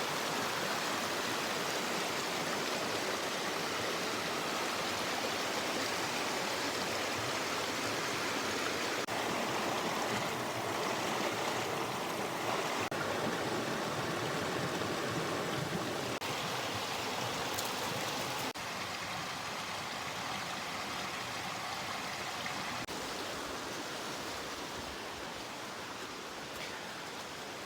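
Creek water flowing steadily over rocks, an even rush that gets a little quieter about two-thirds of the way through.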